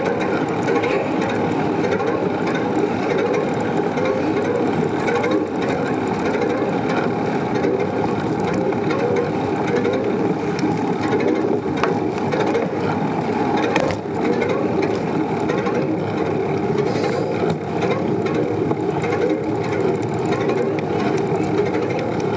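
Steady rolling noise of a bicycle being ridden on pavement, with a sharp click about fourteen seconds in.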